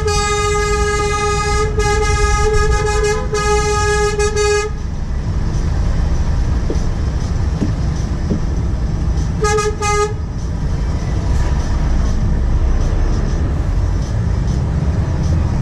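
Truck horn sounding three long blasts back to back, then one short toot about ten seconds in, over the steady low rumble of a truck's diesel engine.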